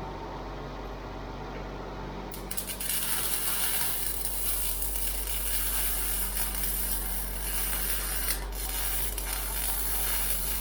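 Welding arc hissing steadily on the steel broom frame, starting a couple of seconds in and running on, with a brief break about eight seconds in.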